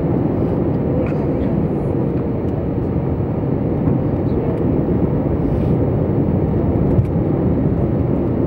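Steady low rushing noise of an airliner's engines and airflow during the approach to land.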